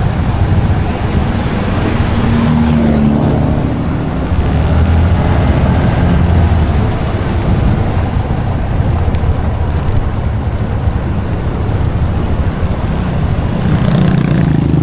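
Motorbike engine running on the road while riding, under a heavy, steady rumble of wind on the microphone.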